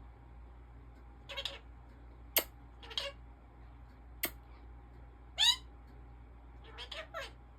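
African ringneck parakeet giving a series of short chirps and squeaks, the loudest a quick upward squeak about five and a half seconds in, with two sharp clicks in between.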